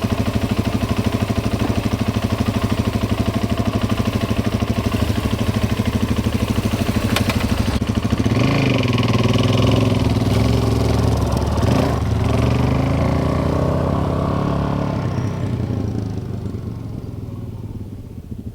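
Motorcycle engine running close by with a fast, even firing beat. About eight seconds in, the pitch wavers with throttle changes, and the sound then fades away over the last few seconds.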